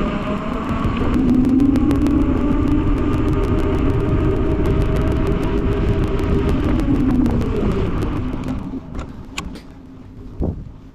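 Bicycle on the move, heard from a bike-mounted camera: steady tyre hum on the road and rush of air over the microphone, with fine rapid ticking. It dies down a little after two-thirds of the way through as the bike slows almost to walking pace, leaving a few scattered clicks.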